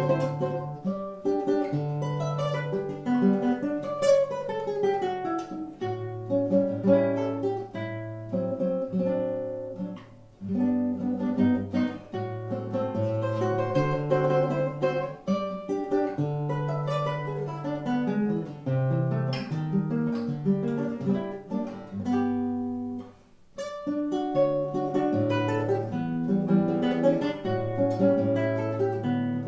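Acoustic guitar played solo in choro style, plucking a melody over a moving bass line, with two brief pauses about ten seconds in and again a little over twenty seconds in.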